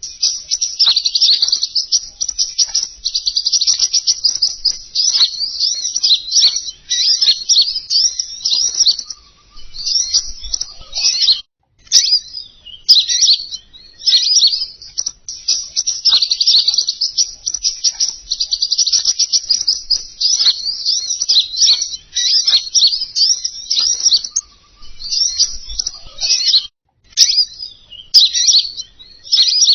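Lure-call recording of the bird called king konin: rapid, continuous high-pitched twittering and chirping. It breaks off briefly twice.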